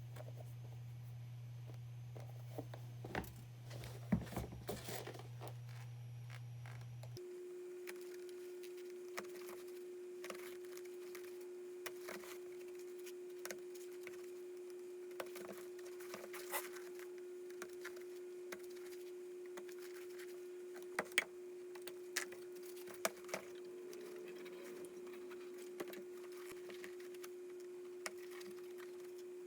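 A steady electrical hum that changes abruptly to a higher steady tone about seven seconds in, with scattered light clicks and taps of handling.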